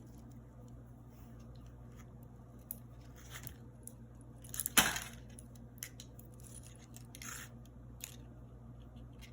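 Beads and craft wire being handled: scattered small clicks and rustles, with one sharper clatter about five seconds in.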